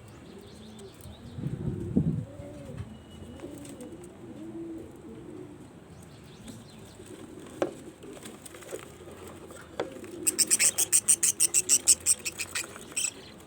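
Pigeons cooing, a string of low rolling coos. About ten seconds in, a fast run of sharp high chirps starts, some six a second, and it is the loudest thing here.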